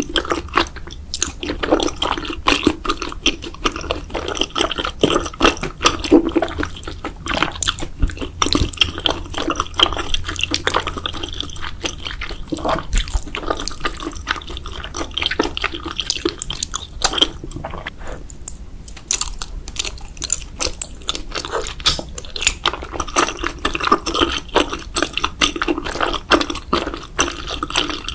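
Close-miked wet chewing of cheese, a dense run of quick sticky mouth clicks.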